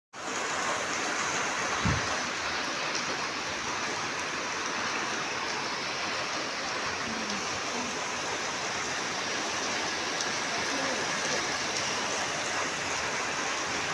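Heavy rain falling steadily, with a brief low thump about two seconds in.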